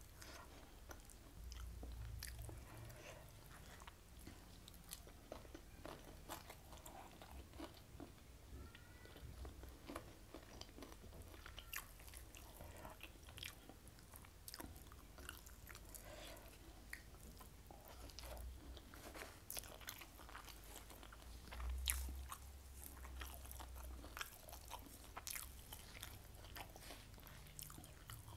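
Close-miked eating sounds: soft chewing of fried fish and rice, with many small wet mouth clicks and crunches as fingers pick at the fish. A dull low thump comes about three quarters of the way in.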